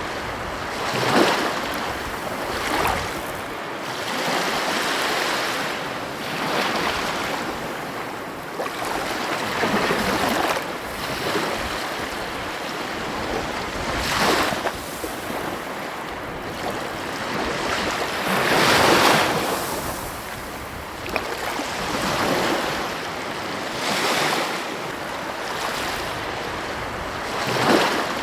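Ocean waves breaking on a beach: a steady rush of surf that swells and falls back every few seconds, with one larger wave about two-thirds of the way through.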